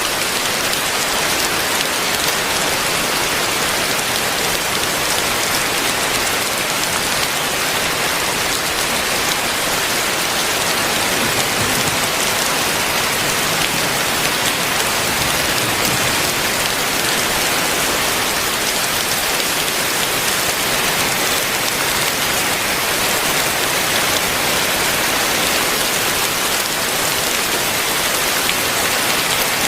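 Heavy rain falling steadily, a dense even hiss of drops hitting surfaces with no break or change.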